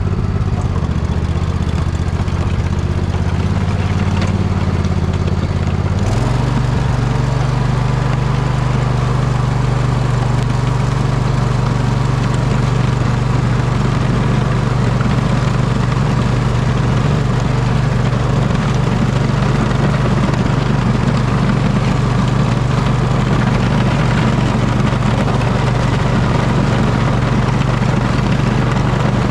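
Poulan riding lawn mower's engine running steadily while it plows snow. About six seconds in, its note steps up to a higher speed and holds there.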